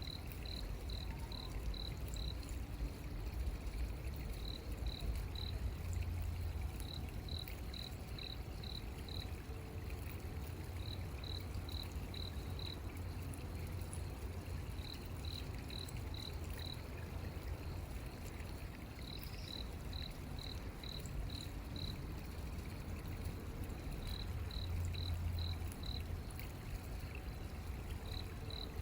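A cricket chirping at night in short trains of about five to seven evenly spaced chirps, a train every few seconds, over a steady low rumble.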